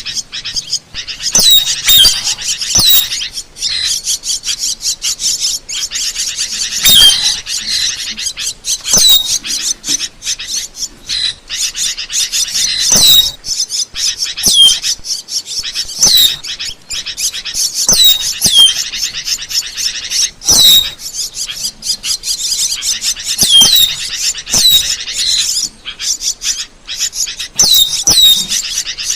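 Asian glossy starling calling without pause: a dense run of sharp, high chattering and clicking notes, mixed with frequent short whistles that drop in pitch.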